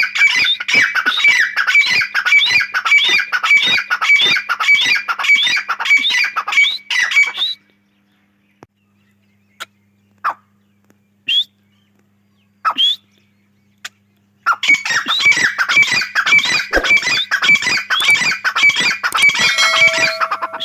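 Grey francolin calling: a rapid, shrill run of repeated calls for about seven seconds, then a pause with a few single calls, then another long run of calls that starts about two-thirds of the way in.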